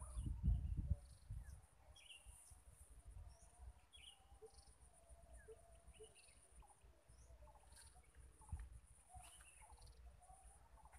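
Quiet outdoor pond-side ambience with scattered short bird chirps, over a faint steady high hiss. A low rumble in the first second.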